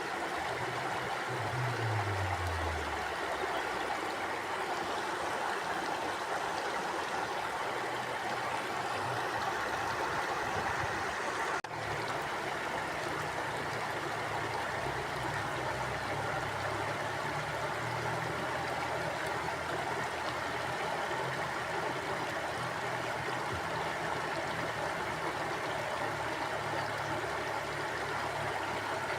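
Mountain stream flowing steadily over rocks, an even rushing and gurgling of water. About two seconds in, a low hum falls in pitch beneath it.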